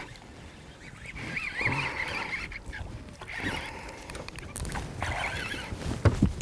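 A bird calling in short, wavering calls, twice. There is a sharp thump near the end.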